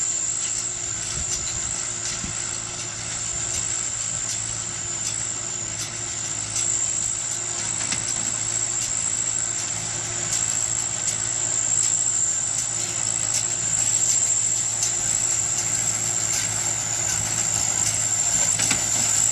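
Hay baler running: a steady machine drone with a high whine and light ticks repeating through it.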